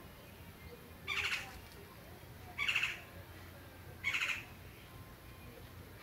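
A bird giving three harsh calls, each under half a second long, about a second and a half apart.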